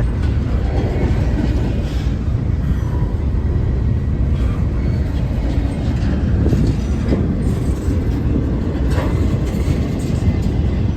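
A train passing close by: its railcars roll over the rails in a loud, steady rumble, with a few faint clacks.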